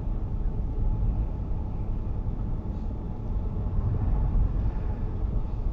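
Car moving on the road, heard from inside the cabin: a steady low rumble of engine and tyre noise.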